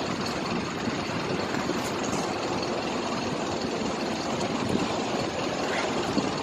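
Steady road traffic noise, a continuous rush of passing vehicles and engines.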